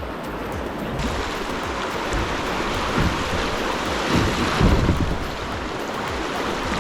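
Rushing creek water, with wind rumbling irregularly on an action camera's microphone.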